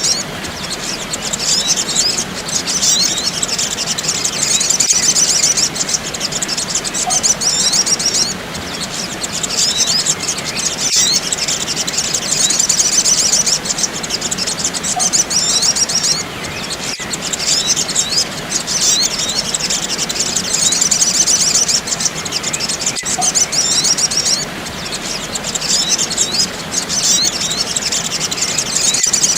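Sunbirds chirping and twittering in a dense, fast, high-pitched chorus, a bird-lure recording of excited calls, easing off briefly about every eight seconds. A faint sharp click recurs about every six seconds.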